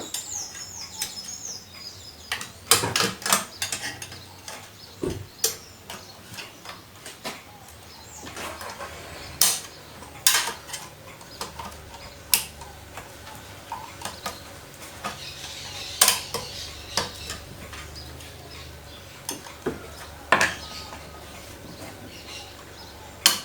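Irregular sharp clicks and clinks of a small flat-blade screwdriver working on metal and plastic washing-machine agitator-drive parts, with the parts' claws being snapped into their housing on the shaft.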